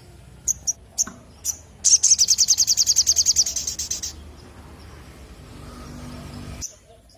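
A sogon (sogok ontong) songbird singing: a few short, high chirps, then a fast, loud trill of about eleven notes a second lasting about two seconds, and one more chirp near the end.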